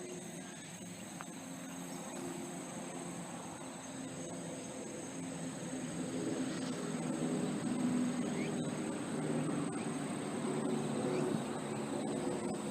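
Insects trilling steadily in a continuous high band, over a low rumble that grows louder toward the end.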